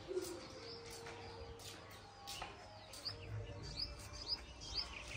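Faint small birds chirping: a run of short, quick chirps in the second half over a quiet low background.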